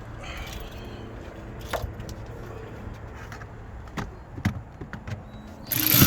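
A few sharp clicks and knocks of tools and parts while the shifter bolts are being refitted. Near the end a power tool starts up, much louder, with a pitch that sinks slowly, driving in a shifter bolt.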